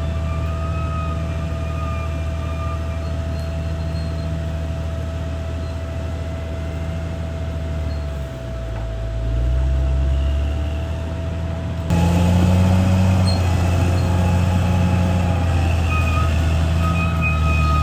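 CAT D6R bulldozer's diesel engine running steadily, its pitch dropping and rising again about halfway through. About two-thirds of the way in the sound turns suddenly louder and fuller.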